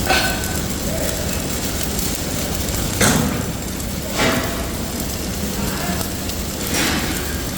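Factory machinery running with a steady low rumble, broken by short sharp bursts at the start, about three and four seconds in, and again near the end.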